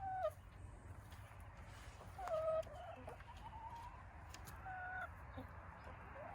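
Domestic hens clucking: several short, pitched calls spread across a few seconds, the loudest about two seconds in.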